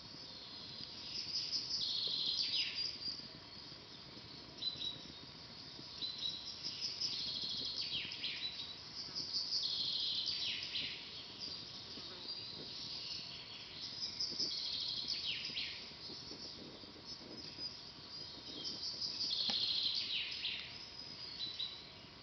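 A songbird singing, repeating a phrase of rapid high notes that ends in falling slurs about every four to five seconds, over the faint crackle of a wood campfire.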